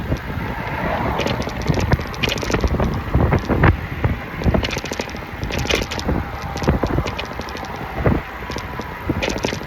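Wind buffeting the microphone while a city bike is ridden, with irregular rattles and knocks from the bike over the pavement.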